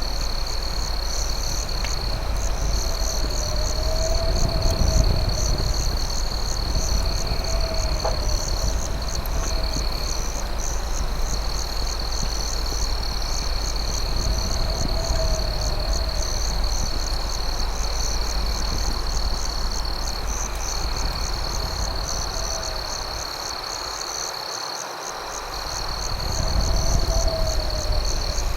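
Night insect chorus of crickets: one steady high trill and a fast pulsing chirp above it. A low warbling call repeats every few seconds, and a couple of faint campfire pops come through over a low rumble.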